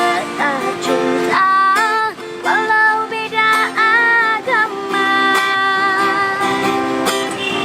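A woman singing an Ambonese regional song to a strummed string accompaniment, holding one long note for about two seconds past the middle.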